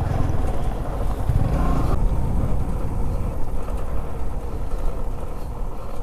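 Benelli 600i inline-four motorcycle engine running while riding, mixed with wind rumble on the microphone; a short swell in engine sound about a second and a half in, then steady.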